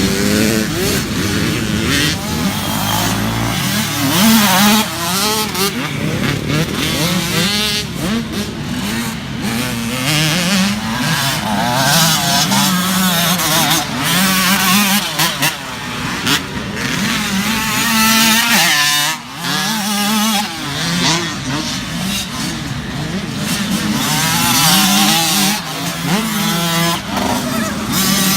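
Several small youth dirt bikes running together, their engines revving up and down so the pitch rises and falls over and over as they ride.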